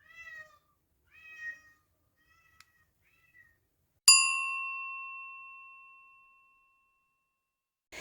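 A cat meowing four times in short, falling calls. About four seconds in comes a single bell-like chime struck once and ringing out for about three seconds.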